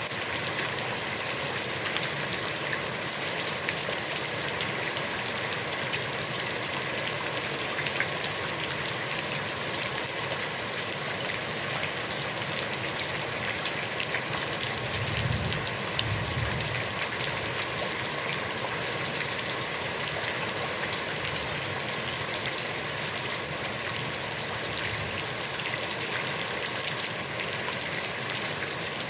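Heavy rain falling steadily onto a pond, a dense even hiss of many drops hitting the water. A brief low rumble comes about halfway through.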